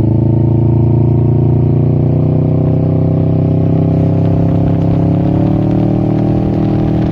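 Exhaust note of a Can-Am Ryker 600's Rotax two-cylinder engine through a Brannon King muffler with a 51 mm silencer baffle in the header pipe, running at a steady engine speed that creeps slowly higher.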